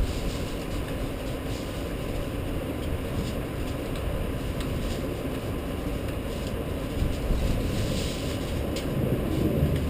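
Rainstorm: a steady low rumble of rain, with faint short ticks of drops now and then, swelling louder near the end.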